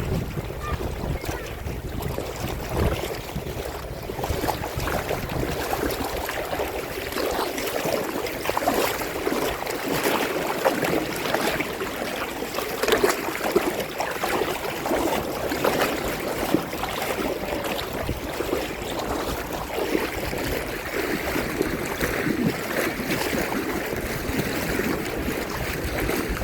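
Sea water lapping and splashing close by: a steady wash of many small splashes and trickles.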